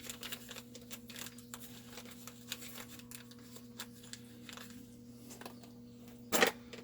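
Hands working on chainsaw parts at a workbench: scattered small clicks and rustling, with one louder knock near the end, over a steady electrical hum.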